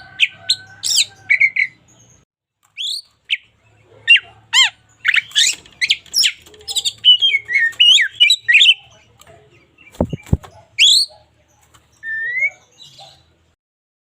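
Oriental magpie-robin singing a fast, varied run of sweeping whistled notes and chirps in short phrases with brief pauses. There are two dull knocks about ten seconds in, and the song stops shortly before the end.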